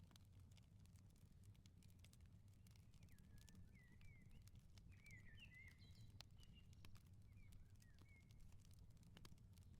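Faint wood fire crackling, with scattered sharp pops and snaps, over a low steady rumble. Small birds chirp a few times around the middle and again near the end.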